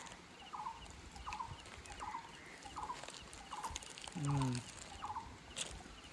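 A bird repeating a short, rattly call of a few quick notes, evenly, a little more often than once a second. About four seconds in comes a brief, louder, low voice-like sound that falls in pitch.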